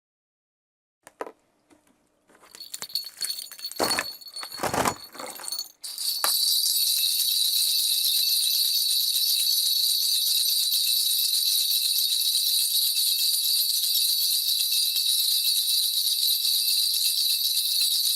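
A Korean shaman's cluster of ritual brass bells (무당방울) being shaken, as done to call the spirits in a 신점 divination. First come a few knocks and scattered jingles as the bells are taken up, then from about six seconds in a continuous, even jingling.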